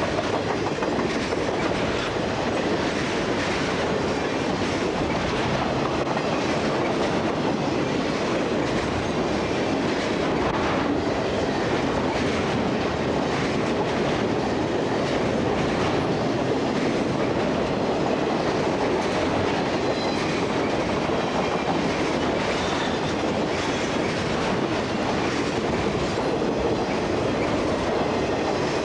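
Freight train cars rolling past at steady speed, their wheels clicking over the rail joints in a continuous rumble.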